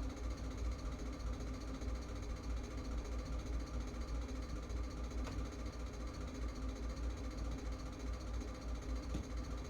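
Steady low hum, with a faint tick about five seconds in.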